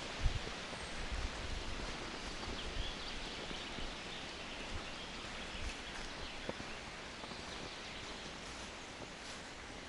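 Coniferous forest ambience: a steady rustling hiss with faint bird calls, and low thumps during the first few seconds.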